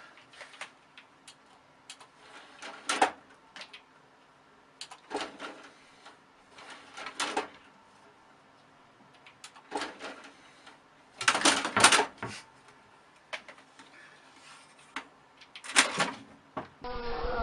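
Scattered knocks, clatter and rustling, short sharp noises a second or more apart. Near the end a cat starts meowing.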